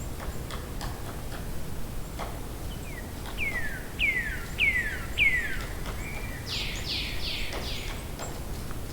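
A bird calling: a series of four clear whistled notes, each sliding down in pitch, then a few harsher, broader chirps. Light scattered clicks and ticks sound throughout.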